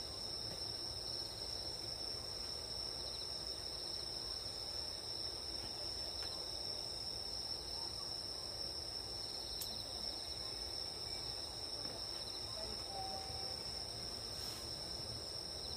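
Grass insects chirping in a steady chorus: continuous high-pitched trills, with a second pulsing trill that comes and goes.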